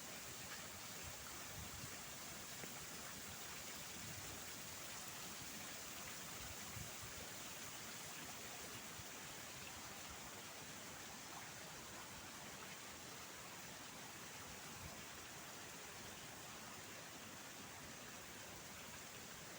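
Faint, steady hiss of outdoor ambience with no distinct events apart from a few soft low thuds.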